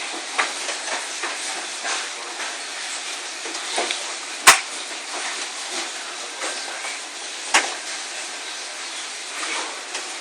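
Hailstorm: a steady hissing downpour peppered with sharp hailstone strikes, and two much louder impacts from large hailstones, about four and a half seconds in and again about three seconds later.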